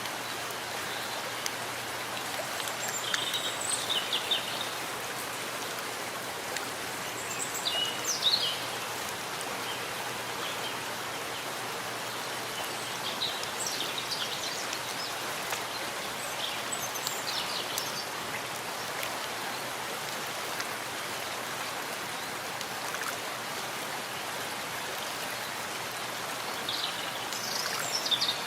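Steady rain falling in a forest, an even hiss of drops on leaves and ground. Birds chirp briefly a few times over it, about 3, 8, 13, 17 and 27 seconds in.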